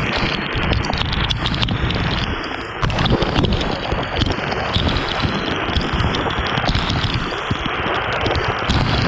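Wind buffeting the microphone of a rider on the move in the rain, with rain and wet-road rush under it; loud and gusty throughout, with many small crackles.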